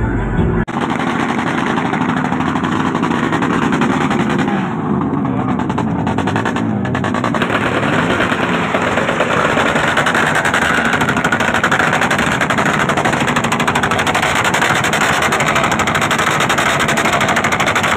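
Drag-race motorcycle engine revving hard on a loud exhaust, a rapid rattling run of exhaust pulses whose pitch rises and falls with the throttle. A brief snatch of music cuts off right at the start.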